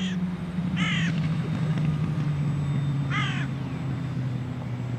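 A crow cawing three times, with short harsh calls near the start, about a second in and about three seconds in. Under the calls an RC model's motor hums low and steady, its pitch slowly falling.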